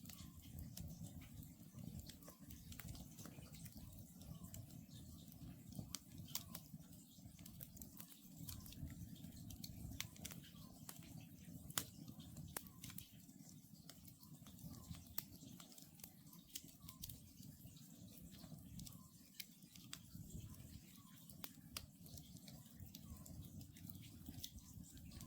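Wood campfire crackling softly, with frequent sharp pops and a low steady rumble of the burning logs. Faint short calls of an Oriental scops owl repeat every second or two underneath.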